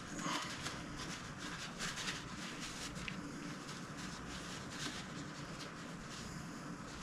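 Light, irregular clicks and taps of small metal gun parts and hand tools being handled on a bench, over a steady low hum.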